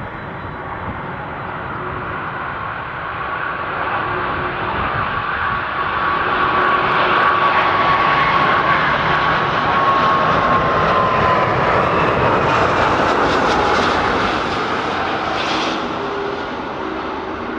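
Airbus A340-600's four Rolls-Royce Trent jet engines as the airliner flies past on final approach to land. The engine noise builds, peaks about halfway through, then fades, and a whine drops in pitch as the aircraft goes by.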